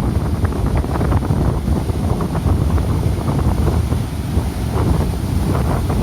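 Strong wind from an approaching typhoon buffeting the microphone in a loud, continuous low rumble, with heavy surf beneath it.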